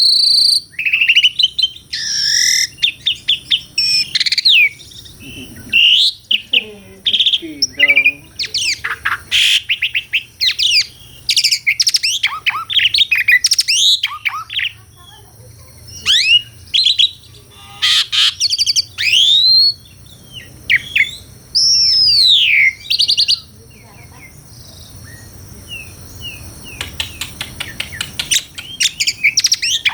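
Asian pied starling (jalak suren) singing a long, varied song of quick chattering notes, clear whistles and rising and falling glides. The song eases into a quieter stretch about three-quarters of the way through, then picks up again near the end.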